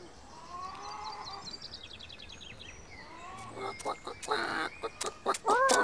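Chicken clucking sound effects in an animated story, soft at first with a short run of quick chirps, then louder, choppy clucking from about four seconds in.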